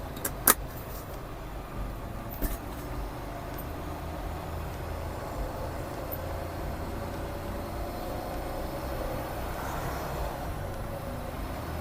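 Semi truck's diesel engine running steadily with a low rumble, with two sharp clicks in the first few seconds.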